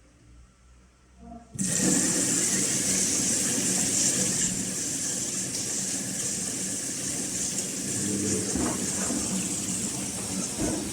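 Gorenje WA72145RD washing machine taking in water: a steady rush of water into the machine that starts suddenly about a second and a half in.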